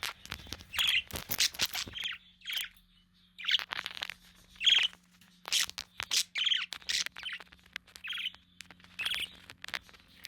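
Budgerigars chirping and squawking: a string of short, sharp calls at irregular intervals, with quick clicks between them.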